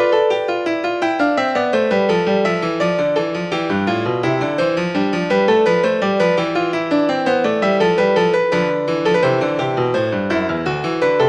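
Background piano music, played in quick flowing runs of notes.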